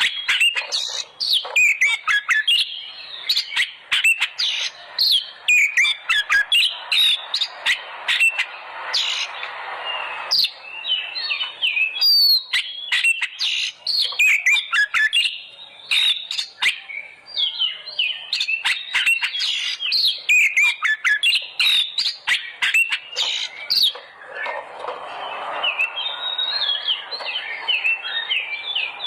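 Oriental magpie-robin (Kacer) singing a loud, continuous, varied song of quick whistles and sharp chirps.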